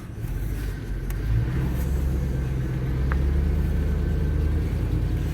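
A motor vehicle engine running with a low, steady rumble, picking up revs and getting louder about a second in, then holding.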